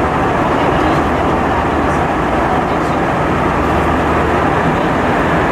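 Steady engine and airflow noise heard inside the cabin of an Airbus A320-232 with IAE V2500 turbofans, an even rush with a low rumble and no changes.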